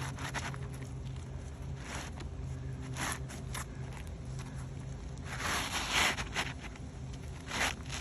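Irregular scraping and scuffing on asphalt roofing shingles, the loudest stretch about five and a half seconds in and another sharp scrape near the end, over a steady low hum.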